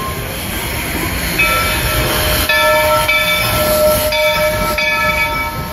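Walt Disney World Railroad steam train running, heard from on board. From about a second and a half in, a steady high-pitched ringing tone rides over the running noise.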